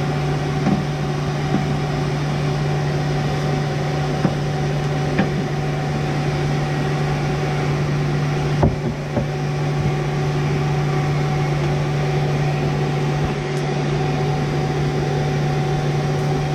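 A coal forge's electric blower running with a steady, even hum. A couple of faint knocks come through, one about five seconds in and one near the middle.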